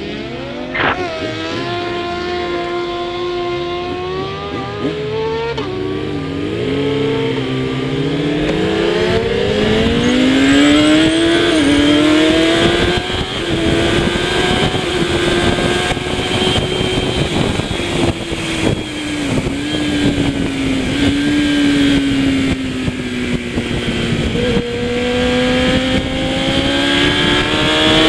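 Kawasaki ZX-10R superbike's inline-four engine running hard at race pace. Its pitch climbs over several seconds, holds high, eases off and then climbs again.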